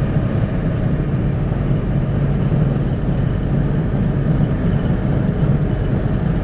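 Steady engine and road noise inside the cab of a Ford ambulance-conversion camper cruising downhill at highway speed, a continuous low rumble with no change.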